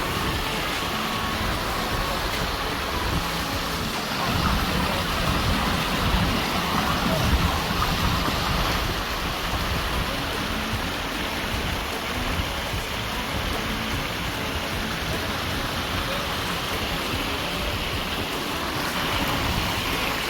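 Steady rush of falling water from a waterfall, a little fuller and deeper for a few seconds near the middle.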